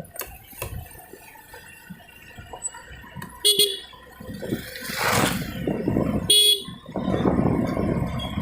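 Two short toots of a vehicle horn, about three seconds apart, over the road and wind noise of a scooter ride.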